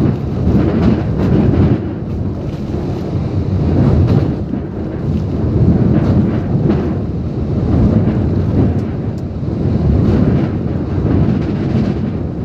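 Typhoon winds and rain, with a heavy wind rumble on the microphone that swells and eases in gusts about every two seconds.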